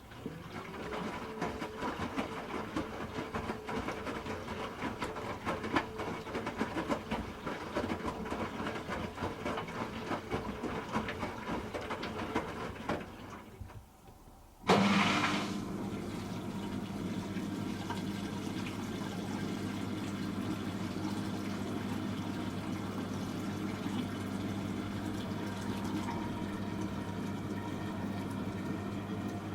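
Hoover H-Wash 300 Plus washing machine drum turning, the motor whirring and the wet load tumbling with irregular clicks; it stops about halfway through. About a second later the water inlet valve opens suddenly, and water rushes in with a steady hum, filling the drum for a rinse.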